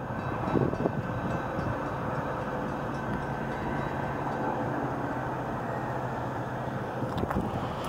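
Metra commuter train moving past the junction: a steady low rumble of wheels on rail with a low diesel engine hum.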